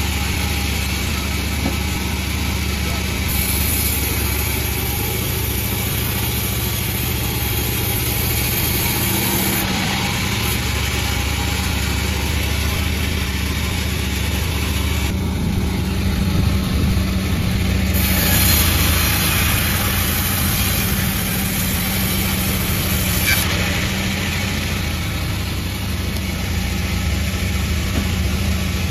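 Panda36 sawmill's engine running steadily. A higher hiss comes in twice over it, each time for several seconds.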